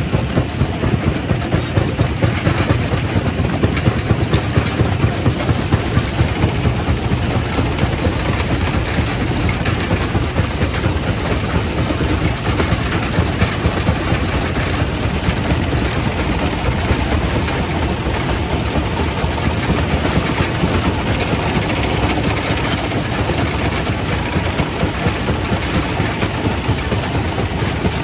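Quarry primary rock crusher running, a loud steady heavy-machinery rumble with rapid knocks of stone being crushed.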